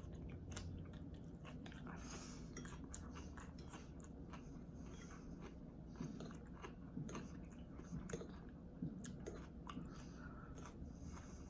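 A person chewing and slurping soft rice vermicelli noodles close to the microphone: irregular wet smacks and small clicks, a little louder between about six and nine seconds in.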